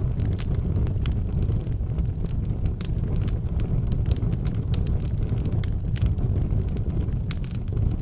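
Wood fire burning in an outdoor fireplace: a steady low rumble with frequent sharp crackles and pops.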